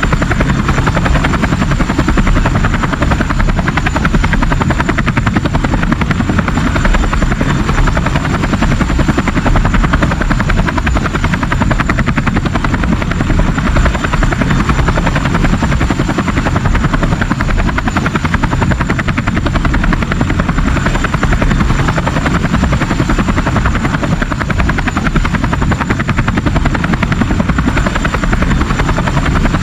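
Steady, fast-fluttering whir like a helicopter's rotor, with a thin high whine over it.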